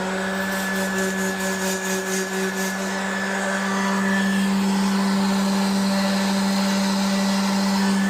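Handheld electric power tool sanding rust off a metal go-kart seat, its motor running at a steady speed with an even, constant whine.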